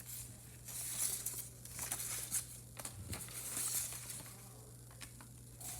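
Light rustling and crinkling handling noises in a series of short bursts, over a steady low hum.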